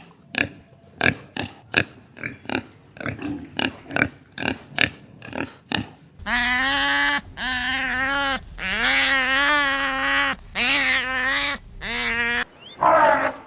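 A pig grunting in short rapid grunts, about three a second. Then comes a run of about six long, steady-pitched animal calls with a slight waver, ending in a shorter, harsher call.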